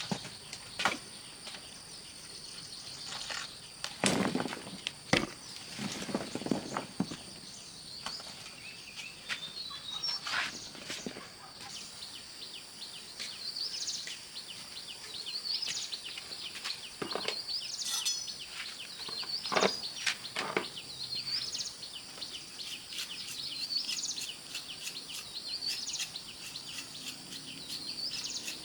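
Outdoor ambience: a steady high-pitched hum with short chirping calls repeating every second or two, and scattered knocks and clinks, a few of them loud.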